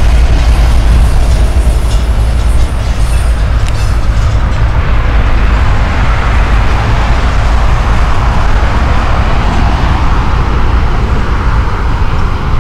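Double-stack container cars of a CSX freight train rolling across a railway overpass: a loud, steady rumble.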